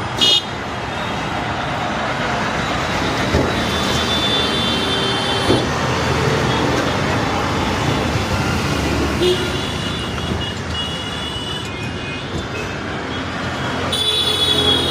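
Steady road-traffic noise, with a sharp knock just after the start and a few short high-pitched tones, the last coming near the end.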